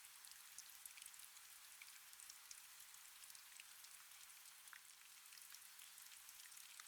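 Faint, steady rain: a soft hiss of falling rain with many small drops ticking.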